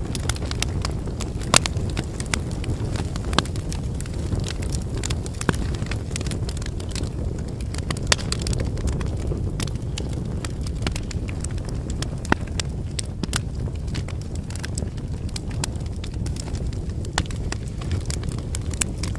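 Wood campfire burning: a steady low rush of flames with frequent sharp crackles and pops from the firewood, a handful of them louder than the rest.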